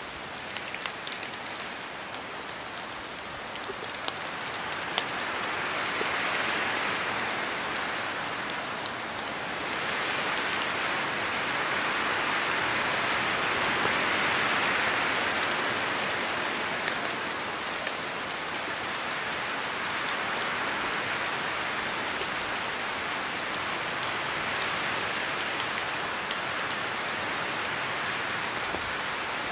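Steady rain falling, a dense hiss with scattered drops ticking, that swells louder twice in the first half as wind gusts through.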